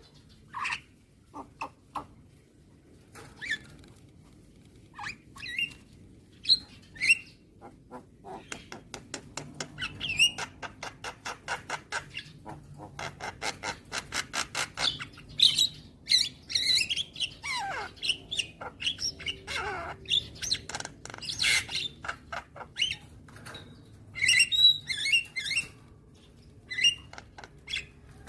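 A Javan myna (jalak kebo) calling in its varied song of sharp chirps and harsh squawks. Partway through comes a fast run of clicks, and later a falling whistle among denser chattering.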